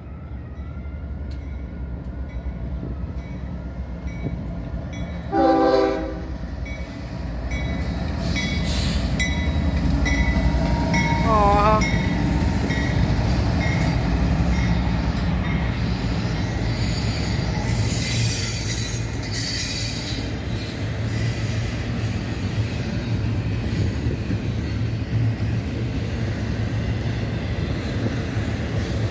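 CSX diesel locomotive approaching and passing at the head of a double-stack intermodal freight train: engine rumble building, one loud horn blast of about a second around five seconds in, then the steady rumble and wheel noise of the container cars rolling by.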